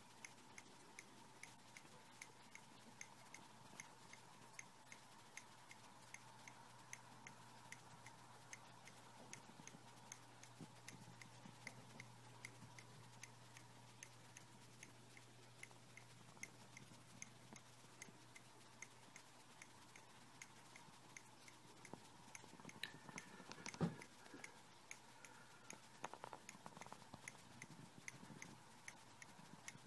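A 17-inch MacBook Pro ticking faintly and evenly, about two clicks a second. One louder knock comes late on.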